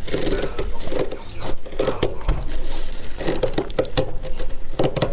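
Chewing soft, powdery freezer frost: a dense run of crackly crunches, one after another.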